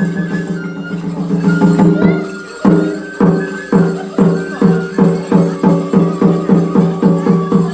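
Shishimai lion-dance festival music: rapid, evenly repeated percussion strikes, about three to four a second, over sustained pitched tones. The music briefly drops off about two and a half seconds in, then comes back with a strong strike.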